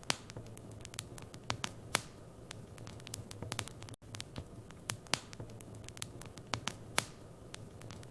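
Wood fire in a fireplace crackling: irregular sharp pops and snaps, a few louder than the rest, over a steady low hum.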